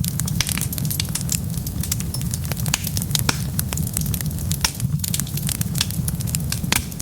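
Wood fire crackling: many sharp pops and snaps, several a second, over a steady low rumble of the flames.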